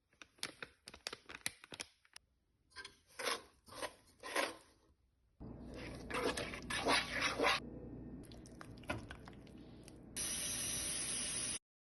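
A run of short food-preparation clips cut together: crackling and crunching handling noises, then a steadier rustle with sharper crackles, and near the end a loud, steady hiss that cuts off suddenly.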